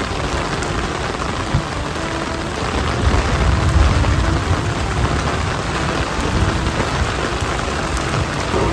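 Steady rain falling on a wet paved lane, with a low rumble swelling about three seconds in.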